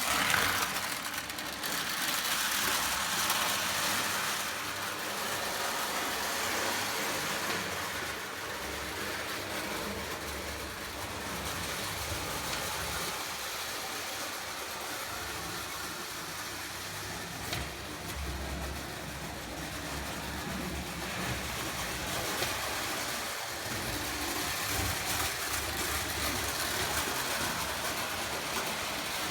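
Prewar Lionel 700-series O gauge toy electric locomotive running on track: a steady whir and rattle of its motor and wheels, somewhat louder over the first few seconds.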